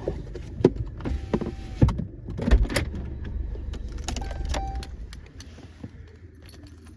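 Handling noise: a run of sharp clicks and knocks over a low steady rumble, with two short tones about a second in and again about four seconds in.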